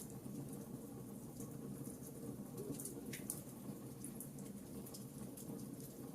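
Fire burning in a fireplace: irregular small crackles and pops over a low, steady rumble of the flames.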